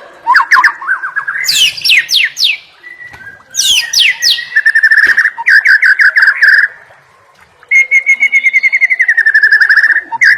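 White-rumped shama (murai batu) singing: quick, steep whistled sweeps, then long, rapid trills of repeated notes, broken by a short pause.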